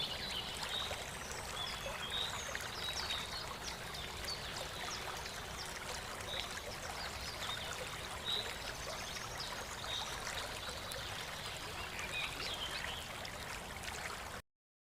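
Running water of a stream, a steady rushing trickle, with short high chirps scattered over it; it cuts off suddenly near the end.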